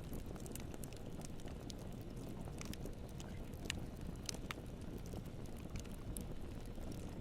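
Campfire burning: a steady low rush of flame with scattered sharp crackles and pops of burning wood.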